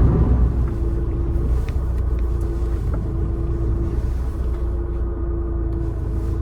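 Car driving along a road: steady low engine and road rumble with a steady mid-pitched hum over it.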